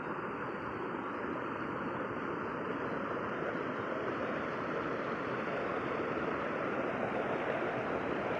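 Steady rush of flowing water, growing slightly louder over the seconds.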